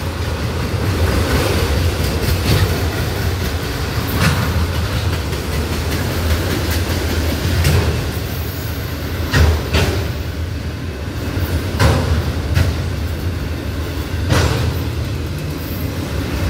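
Empty autorack freight cars rolling past on the rails: a steady rumble of steel wheels, with a sharp clack from the wheels every few seconds.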